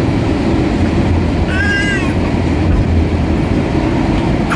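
Steady engine and air noise inside the cabin of an Airbus A320 airliner in flight. About one and a half seconds in, a baby gives one short, rising-and-falling whimper.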